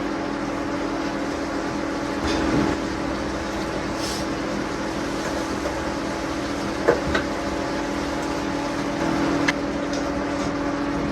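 A steady machine hum with a held low tone, with a few light clicks and knocks over it.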